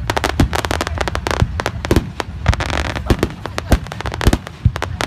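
Fireworks display: a rapid, irregular string of sharp bangs from shells bursting overhead, over a low rumble, with a denser stretch of crackling about two and a half seconds in.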